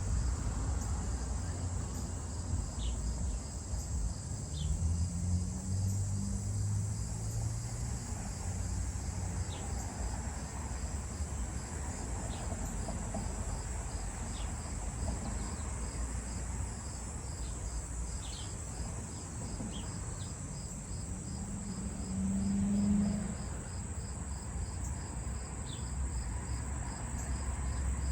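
Crickets and other insects chirping steadily in a continuous high trill; about halfway through, a faster pulsing chirp joins in. A low rumble runs underneath and swells briefly near the end.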